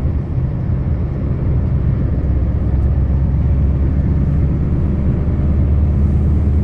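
Scania V8 truck engine running under way, a steady low rumble with road noise that gets slightly louder from about two seconds in.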